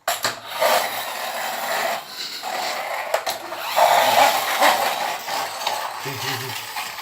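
Electric hair clippers running and cutting hair down to the scalp, the cutting noise rising and falling as they pass over the head.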